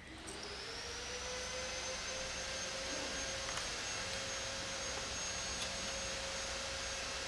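A small motor spinning up and then running steadily: a high whine over a hiss. The lower note rises briefly just after it starts, then holds at one pitch.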